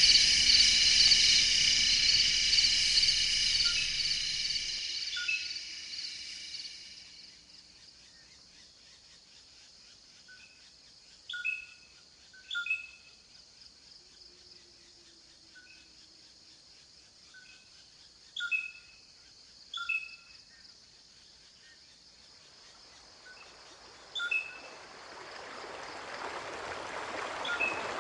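A chorus of crickets trilling steadily and high fades out over the first several seconds. Then a bird gives short, sharp chirps every second or two, with a few louder ones. Running water fades in near the end.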